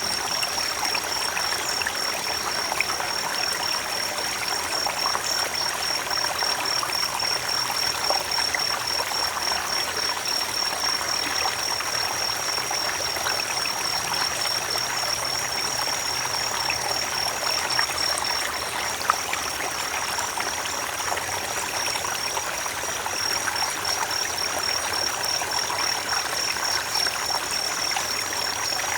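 Creek water flowing and babbling steadily, with a continuous high pulsing trill above it.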